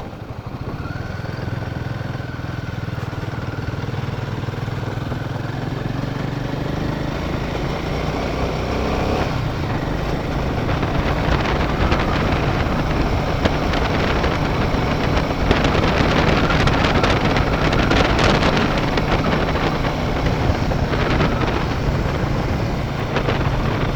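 Royal Enfield Himalayan 450's single-cylinder engine pulling the motorcycle along a rough dirt track, its pitch rising steadily over the first several seconds. The engine then blends into growing wind and tyre noise as the bike picks up speed.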